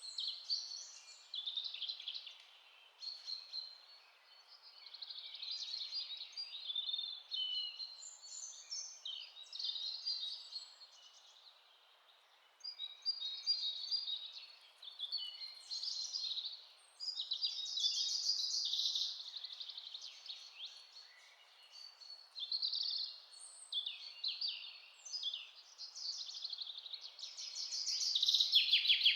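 Several songbirds chirping and singing in overlapping calls and trills, with a short lull about twelve seconds in, over a faint steady hiss.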